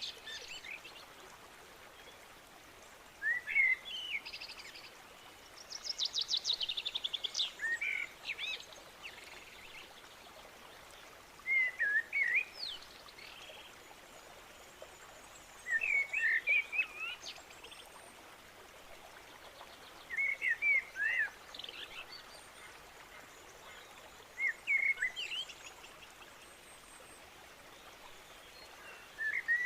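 A songbird singing short, warbled phrases about every four seconds, with a fast trill once, over a faint steady background hiss.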